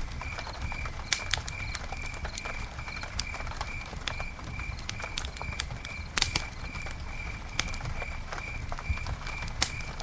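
Campfire crackling, with irregular sharp pops and snaps over a low rumble of burning wood. A steady, evenly repeating high chirp runs underneath at about two to three a second.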